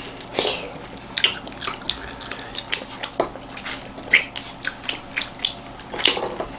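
Wet chewing and lip-smacking of people eating dhido with chicken curry: irregular short smacks and clicks, a few each second.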